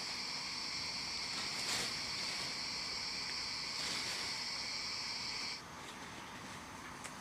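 Steady high-pitched insect drone that cuts off abruptly about five and a half seconds in, leaving a quieter background with a faint click near the end.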